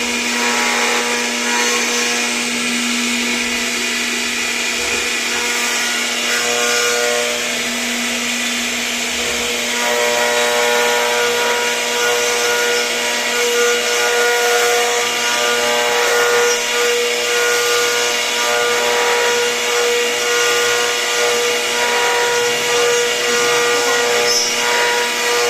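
CNC router spindle running and carving, a steady whine over cutting noise, the tone changing about ten seconds in.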